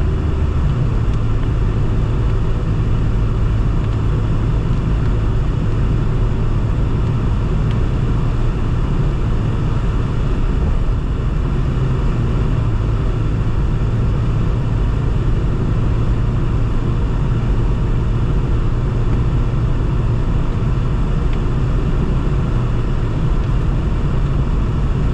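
A car running, heard as a steady low rumble with an even hum that does not change.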